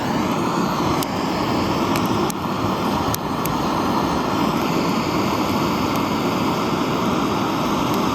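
Handheld gas blowtorch running with a steady roar, its flame held on damp firewood to get a campfire going, with a few faint ticks over it.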